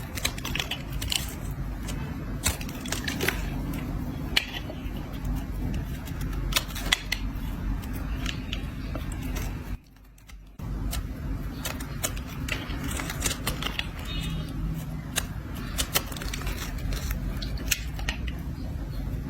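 A blade scraping and shaving a block of soap, with many crisp, crackly ticks as the shavings break off, over a steady low background noise. The sound drops out briefly about halfway through.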